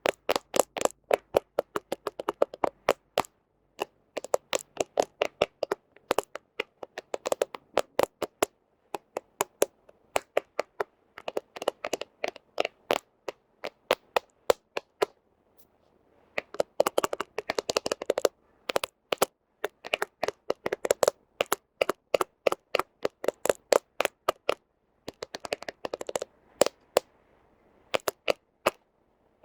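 Fingernails tapping rapidly on a smartphone camera lens, in quick bursts of many sharp clicks with short pauses between them.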